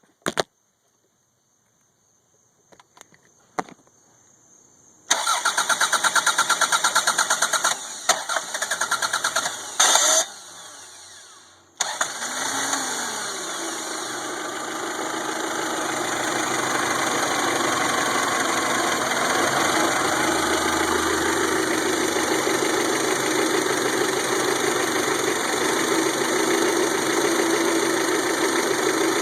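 1992 Toyota Camry four-cylinder being cranked by its starter for several seconds with a brief pause, then catching and settling into a steady run. This is the engine's hard start; the owner later traced it to weak spark from a corroded distributor cap and rotor.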